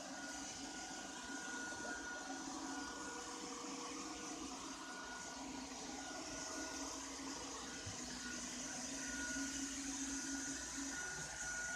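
Ropo Glass robot vacuum running steadily: a continuous motor hum with a thin, constant high whine.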